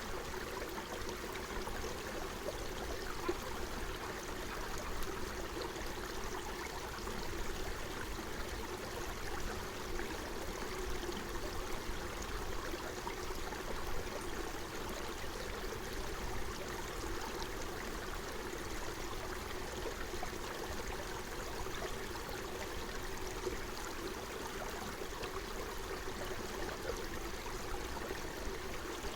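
Forest stream flowing and babbling steadily over its bed.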